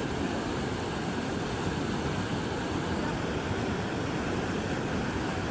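Steady rushing of river water, an even noise with no breaks or changes.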